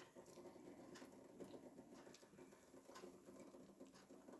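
Near silence: room tone with a few faint, scattered light ticks.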